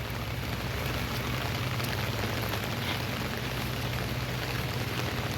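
Steady rain falling, an even hiss full of small drop taps.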